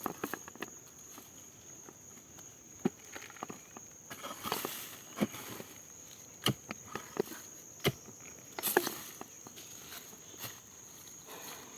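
A steady, high-pitched insect drone, like crickets in a field, with irregular light knocks and footsteps scattered through it.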